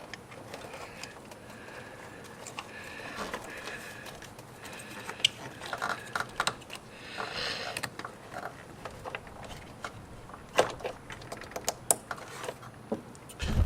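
Scattered plastic clicks and light rattles from handling a headlight bulb and its wiring connector, with a few sharper clicks about midway and near the end.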